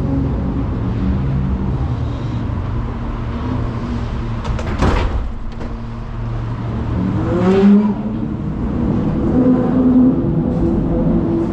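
A truck engine running steadily, with a sharp clatter about five seconds in and the revs rising briefly around seven and a half seconds in.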